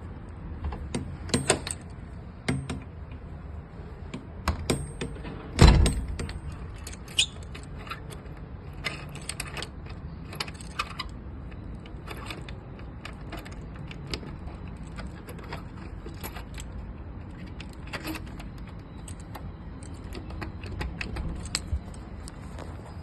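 A flat's entrance door being unlocked and opened: scattered clicks and metallic rattles of the lock and handle, with one loud knock about six seconds in.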